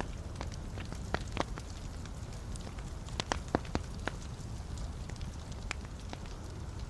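Wood fire burning in a fireplace: a steady low rumble of flames with irregular sharp crackles and pops from the logs, thickest about one to four seconds in.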